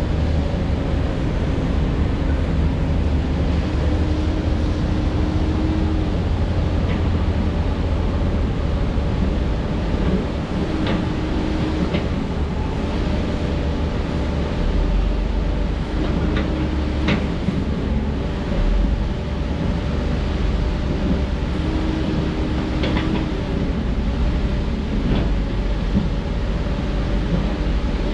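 Heavy construction machinery's diesel engine running steadily under load, with a tone that comes and goes every few seconds, and a few sharp clanks of metal on rock.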